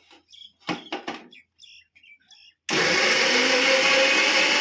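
An electric mixer grinder grinding green chillies: a few light knocks, then about halfway through the motor switches on and runs at a steady, loud, even whir.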